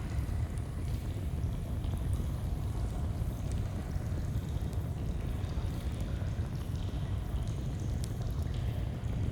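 Flowing stream rushing steadily, with a campfire crackling in small scattered pops.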